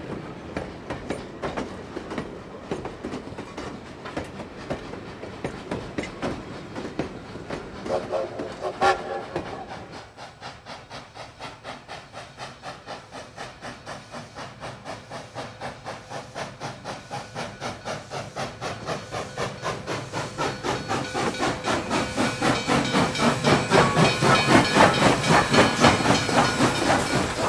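Train wheels running over rail joints with a rapid, even clickety-clack, and a short whistle-like tone about eight seconds in. After a dip in level the clicking builds steadily louder as a train comes closer, peaking near the end.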